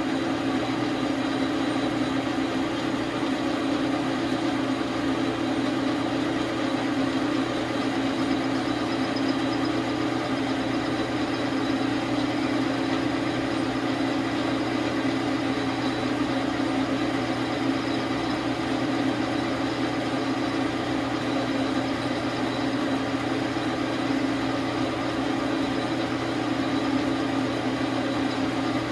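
Dar Sin 12 x 37 manual lathe running at a steady speed, its motor and gear train giving a constant hum.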